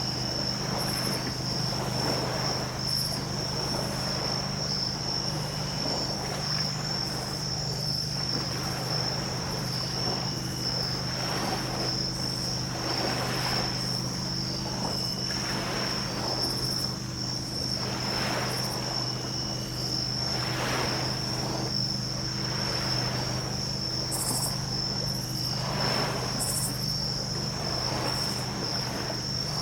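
Small ocean waves washing onto a beach, swelling and falling away every couple of seconds. Insects trill steadily and high underneath, and a steady low hum runs throughout.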